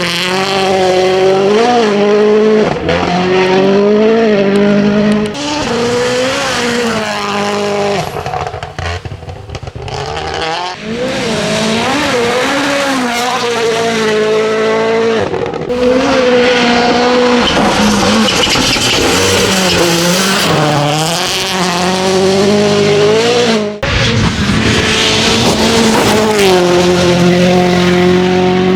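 Hyundai i20 N Rally1 rally car's turbocharged four-cylinder engine revving hard, its pitch climbing and dropping again and again through quick gear changes, flat out on gravel. It fades for a couple of seconds around the middle, then comes back loud.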